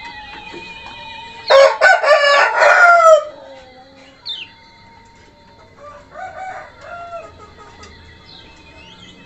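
A rooster crows once, loudly, about a second and a half in, the call lasting nearly two seconds and falling in pitch at its end. Short, high bird chirps and faint calls follow over a steady background of thin tones.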